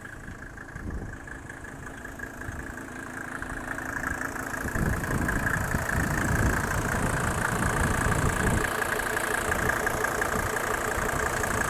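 Mercedes OM605 2.5-litre five-cylinder turbo diesel with mechanical injection pump, running steadily after a glow-plug start. About five seconds in it gets louder with a heavier low rumble, which eases back a few seconds later while the engine keeps running.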